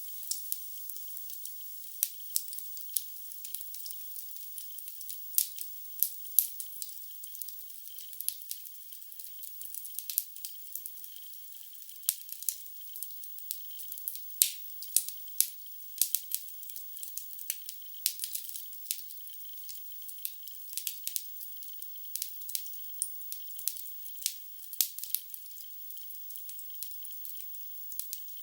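Wood fire in a fireplace crackling: frequent irregular sharp pops and snaps over a steady faint hiss, heard thin and trebly with no low end.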